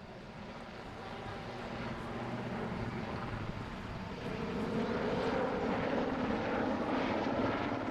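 Westland Sea King helicopter's rotors and turbine engines, a steady drone that grows gradually louder.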